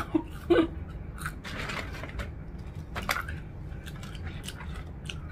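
Close-up chewing of crispy curly fries: scattered crunches and wet mouth clicks. A brief voice sound comes in the first half-second.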